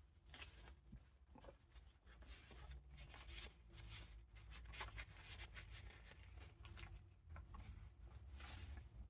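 Faint paper handling: junk journal pages and loose vintage paper ephemera rustling and crinkling as they are turned, with a longer rustle of a page turning near the end. A low steady hum runs underneath.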